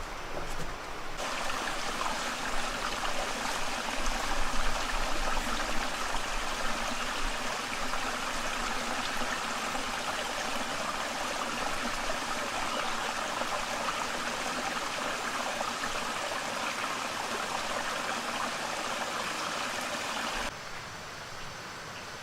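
Water running in a steady rush. It starts suddenly about a second in and stops suddenly near the end.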